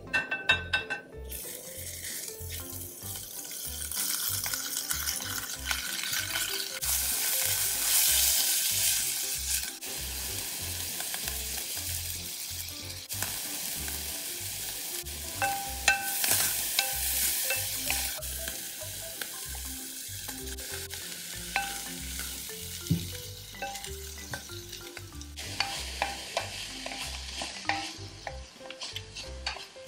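Minced beef, and later diced onion and carrot, sizzling as they fry in sesame oil in a ceramic casserole dish, with the sizzle starting about a second in. A spoon stirs the food and clicks against the dish now and then.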